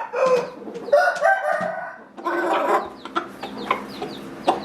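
Gamefowl roosters crowing: three long crows in the first three seconds, followed by a run of short, high chirps.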